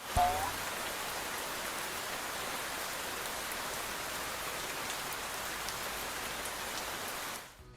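Steady rain falling, a recorded rain sound effect, fading out near the end. A brief short tone sounds at the very start.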